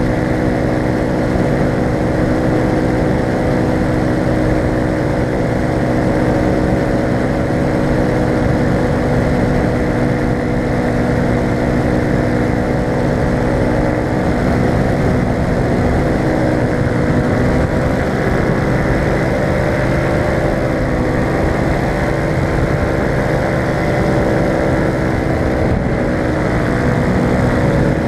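Falcon four-stroke paramotor engine and propeller running steadily in flight, its pitch wavering slightly partway through.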